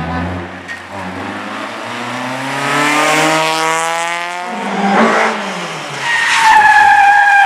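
Race car engine accelerating hard, its pitch climbing steadily, then breaking off about five seconds in, followed by a loud, steady tyre squeal near the end as the car slides.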